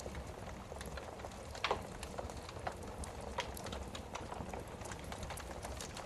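Wood fire crackling in a fireplace: irregular sharp pops and snaps over a steady low rumble of the flames, with one louder pop a little under two seconds in.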